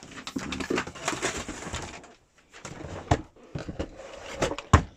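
Irregular plastic clicks, scrapes and knocks from a Miele Complete C3 vacuum cleaner being handled as its hose is detached and its casing opened. The clicks are dense in the first couple of seconds, then scattered, with one sharp knock near the end.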